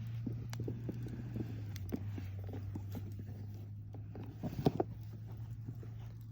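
Campfire wood crackling with irregular pops, and a quick cluster of louder pops about four and a half seconds in, over a steady low hum.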